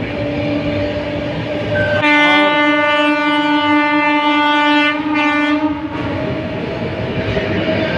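Express train running at speed, with the steady noise of the coach and wheels on the track. About two seconds in, a train horn sounds one steady blast for about three seconds, then dies away.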